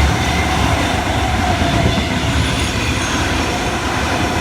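Sydney Trains Tangara electric train passing through a station without stopping: a loud, steady rumble of wheels on rail with some clickety-clack.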